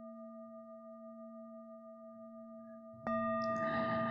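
A singing bowl ringing with a steady, pure, several-toned hum that slowly fades, then struck again about three seconds in and ringing out louder at the same pitches.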